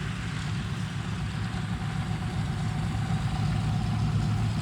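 An engine running at a steady low idle, gradually getting louder.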